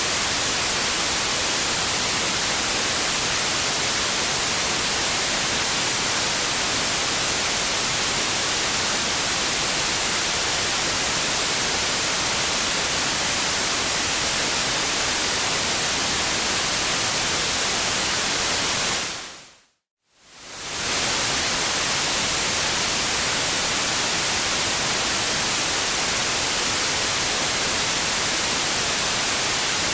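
Steady white noise hiss. About twenty seconds in it fades out to a moment of silence and fades straight back in.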